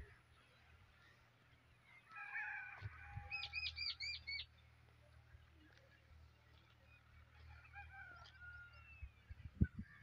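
Birds calling outdoors: a harsh call about two seconds in, then a quick run of about five sharp, high notes, and softer chirps later. There are a couple of knocks near the end.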